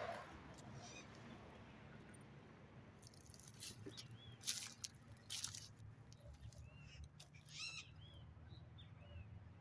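Faint outdoor ambience with a low steady hum, a few short chirping calls near the end, and several sharp clicks in the middle.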